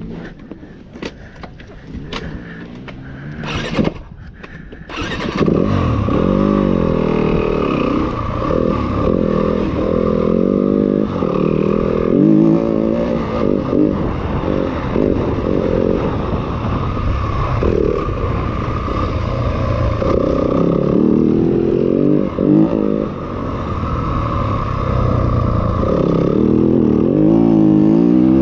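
250 cc dirt bike engine being ridden, revving up and down with the throttle and gear changes. Before it gets loud about five seconds in, there are scattered clicks and knocks.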